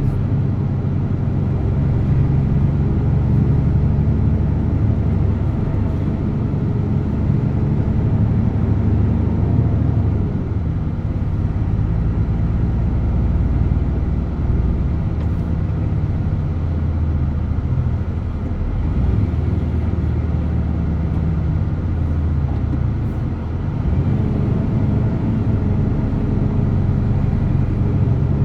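DAF truck's diesel engine running under way, a steady low drone whose pitch eases down and picks up again several times.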